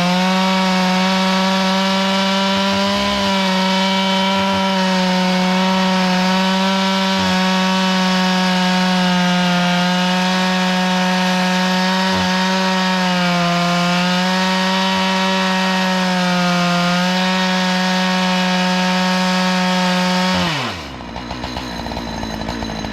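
Chainsaw running at full throttle while milling wood, its high engine pitch sagging a little several times under load. Near the end the pitch drops sharply as it is throttled back to a lower, rougher idle.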